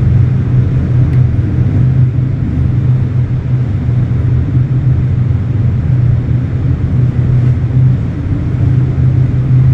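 Gale-force wind (force 8, gusting 9) howling around a ship's bridge, a loud, steady low roar and 'woo woo' that does not let up.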